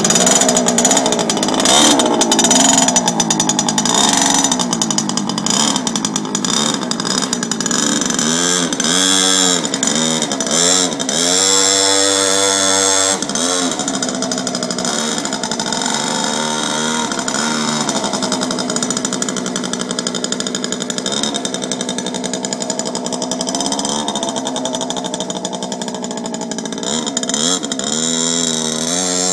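Mini bike chopper's small engine running hard as it is ridden, its pitch rising and falling several times in quick succession around the middle, then holding steadier.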